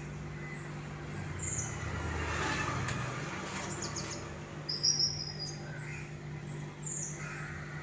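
Birds chirping in short, high calls several times over a steady low hum. A soft, noisy swell rises and falls in the first few seconds as handfuls of washed rice are dropped into a steel pot of steaming water.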